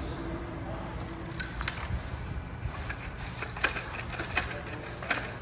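Scattered light clicks and taps from hands and small parts being handled while a truck windshield is fitted, such as the setting shims, over a steady low rumble. The clicks come more often in the second half.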